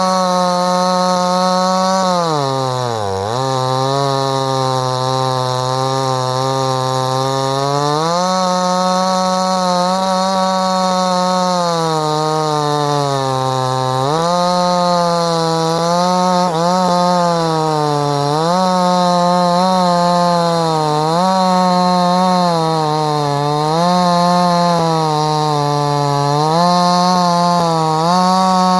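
58cc Chinese two-stroke chainsaw running at high revs through wood cuts. Its pitch sags about eight times as the engine bogs under load, very deeply about three seconds in, and climbs back each time.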